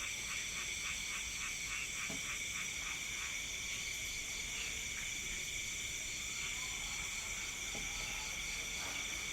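Night-time chorus of insects shrilling steadily at several high pitches. In the first two seconds a lower call pulses about four times a second over it.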